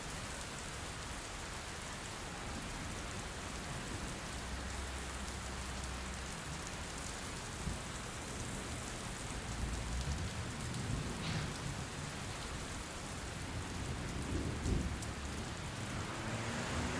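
Heavy rain falling steadily on a surface, a dense even hiss. A few low rumbles come through in the second half.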